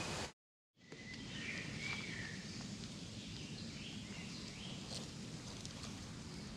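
Outdoor woodland ambience with a steady low background noise and a bird chirping in short calls between about one and four seconds in, after a brief moment of total silence near the start.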